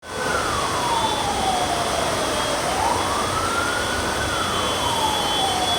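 Vehicle siren wailing in slow sweeps, its pitch falling, rising and falling again about every four seconds, over the steady hiss of heavy rain.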